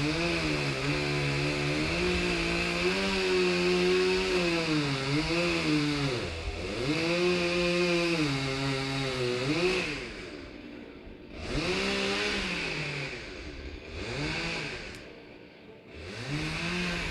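Two-stroke chainsaw running at high revs while cutting into a large tree trunk, its pitch dipping and recovering again and again as it bogs under load. About ten seconds in it drops back to a lower, quieter speed, with brief revs up in between.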